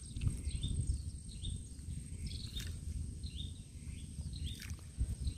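A bird calling with short rising chirps, repeated about twice a second, over a steady low rumble.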